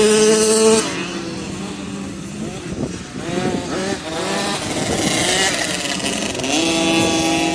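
Motocross bikes revving and passing. One engine is loud and high-pitched at first and drops away about a second in. Another builds up and holds steady near the end.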